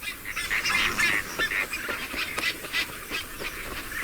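A flamingo breeding colony calling: many short, rough calls overlapping in quick succession.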